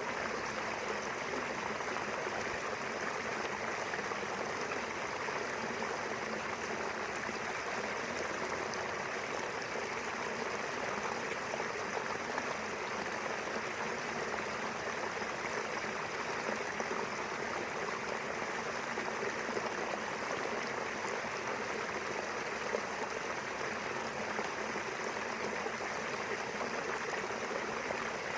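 A small river flowing steadily, a constant rushing of running water.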